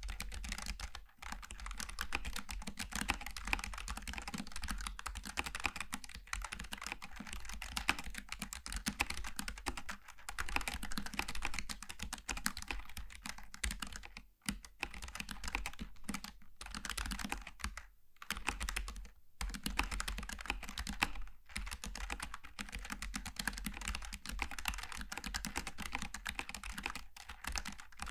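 Logitech G915 TKL low-profile mechanical keyboard with tactile switches being typed on continuously, a quick stream of key clicks with a few brief pauses around the middle.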